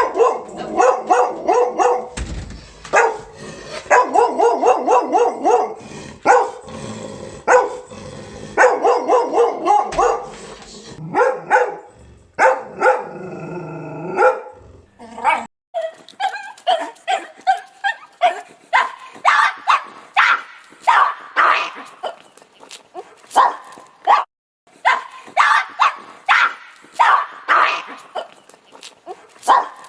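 Dogs barking one after another in quick runs of loud barks, the voice changing between deeper and sharper, higher barks. A longer drawn-out call comes about halfway through.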